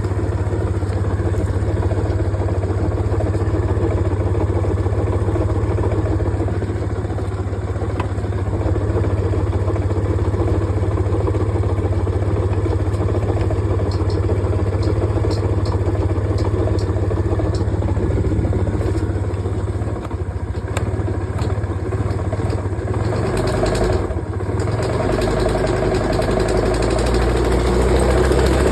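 Suzuki Let's 4 scooter's small single-cylinder four-stroke engine idling steadily. The sound dips briefly twice in the last third, then turns deeper and a little louder near the end.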